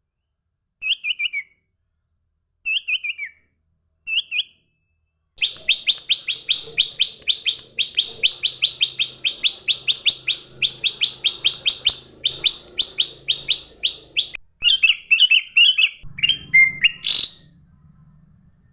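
A songbird calling: three short chirping phrases, then a long, fast run of sharp repeated chirps, several a second, that breaks into more varied notes near the end.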